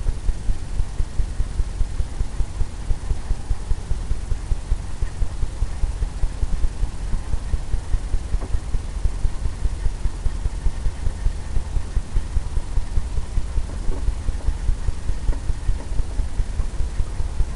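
Blender brush tapping and scrubbing on a stretched canvas, a steady run of low, dull thumps about four a second as the canvas drums under the brush.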